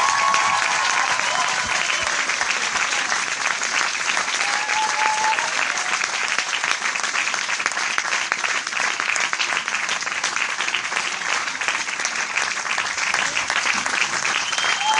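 Crowd applauding: dense, steady clapping from many hands, with a few brief high calls rising above it.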